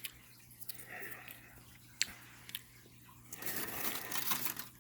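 Faint crinkling and clicks from handling a melted chocolate egg in its foil wrapper, with a sharper click about two seconds in and a denser rustle of foil starting about three and a half seconds in.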